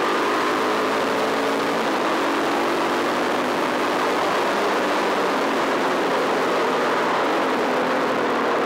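Enduro motorcycle engine running hard at speed on a gravel track, its note climbing gently in the first couple of seconds, over a steady loud rushing noise.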